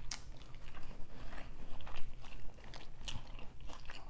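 A person chewing and eating a McDonald's Quarter Pounder with cheese close to the microphone, with many short, irregular mouth clicks and smacks.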